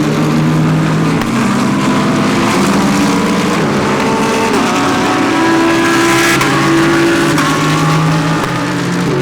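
Several GT3 race cars going by close together, engines overlapping and changing pitch as they shift gears.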